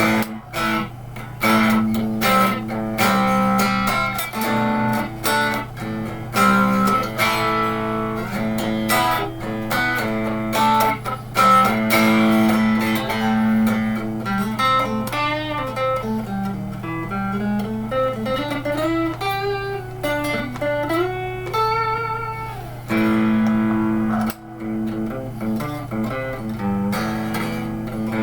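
A 1987 Fender electric guitar, freshly strung with Yamaha 009–042 super light gauge strings, played through an old Fernandes amplifier. It plays picked single-note lines, with string bends that glide up and down through the middle of the passage, over a steady low hum.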